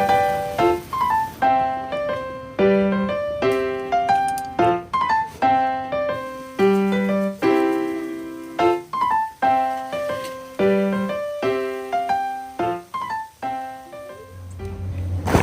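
Background piano music: a slow melody of single notes and chords, each note fading after it is struck. A low swelling sound comes in near the end.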